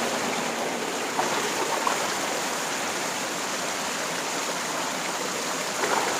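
Steady rush of water from a small waterfall and its rocky stream.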